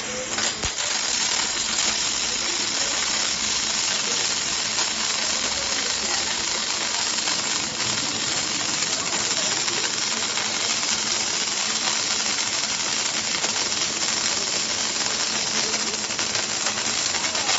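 Welding arc of a circumferential seam welder striking and then hissing steadily along the seam.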